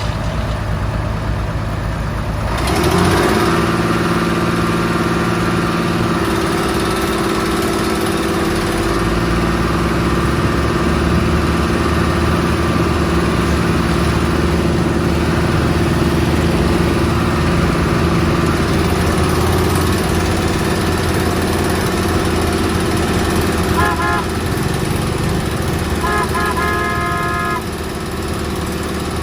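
Diesel engine of heavy road-construction machinery running, stepping up in level about three seconds in and then holding steady. A few short beeps sound near the end, just before the engine drops back slightly.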